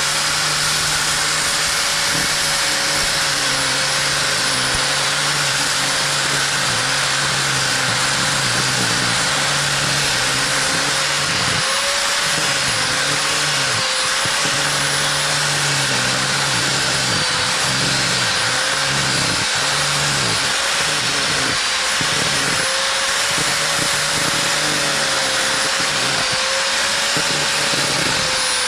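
Angle grinder with a diamond blade running continuously, cutting out mortar joints around old bricks in a chimney. Its motor whine wavers slightly as the blade works through the hard mortar.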